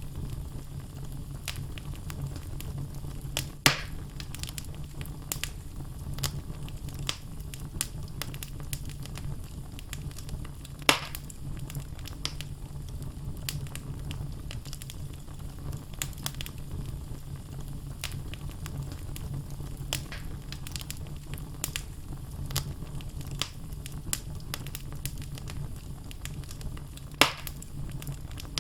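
Wood fire of logs burning in a fireplace: a steady low rumble of flames with constant small crackles, and three louder pops from the logs, about 3.5 seconds in, about 11 seconds in and near the end.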